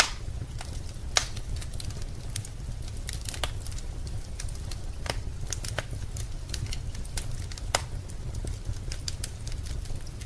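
Wood fire in a fireplace crackling, with irregular snaps and pops, a few sharper ones about a second in and near the end, over a steady low rumble.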